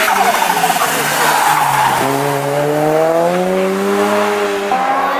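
A rally car's engine is at full throttle. Its note climbs, drops at a gear change about two seconds in, climbs again and shifts once more near the end. Tyre squeal and skidding noise come through in the first couple of seconds.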